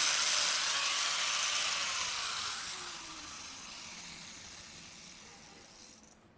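A power tool's hissing, grinding noise fades away over several seconds, while a faint whine falls in pitch as the motor spins down after being switched off.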